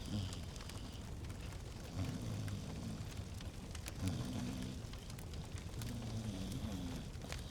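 Fireplace fire crackling, with frequent sharp pops and snaps over a soft hiss.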